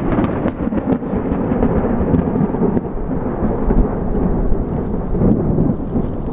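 A long rolling rumble of thunder from a thunderstorm, with rain and scattered drop ticks. It swells and churns throughout and starts to ease near the end.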